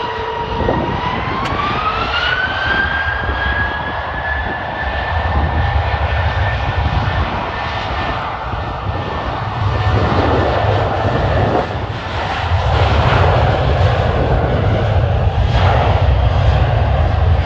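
Boeing 737-800's CFM56 turbofan engines spooling up to takeoff power: a high whine rises in pitch over the first few seconds and then holds steady. A low rumble builds underneath and grows louder in the second half.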